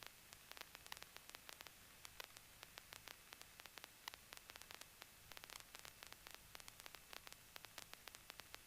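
Faint crackling static on a cockpit headset/intercom audio feed, with irregular clicks several times a second over a low hiss while the microphones are quiet.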